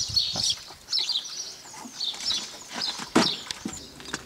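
Small birds chirping repeatedly in the background, with a single sharp knock about three seconds in.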